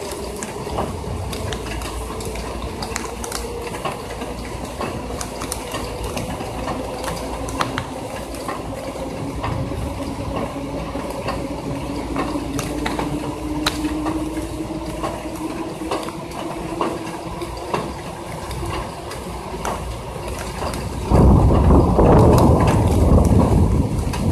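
Raindrops steadily pattering and ticking on a metal window ledge and on the body of the phone. About three seconds before the end, a sudden loud, deep rumble of thunder breaks in.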